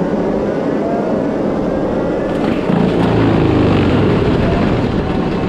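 Case 620 skid steer's diesel engine running hard with its Shearex mulching head spinning, cutting weeds. About two and a half seconds in, the sound swells and its pitch dips and recovers for a second or so as the head takes load.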